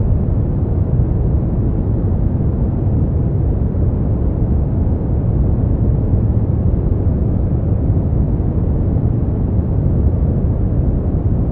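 Brown noise: a steady, deep rumbling hiss with most of its energy in the low end and little above the midrange, unchanging throughout.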